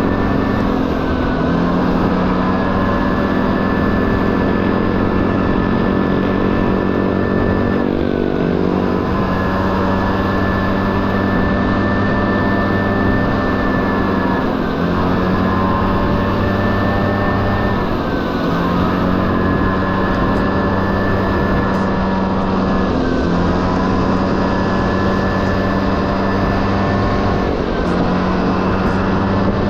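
Two-stroke 50cc engine of a Honda Dio AF18 scooter running on the move. Its note holds steady but briefly dips and climbs back up several times as the throttle eases and opens again.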